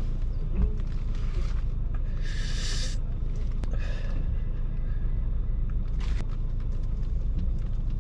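Steady low rumble of a car running, with a few short rustling hisses over it, about two and four seconds in.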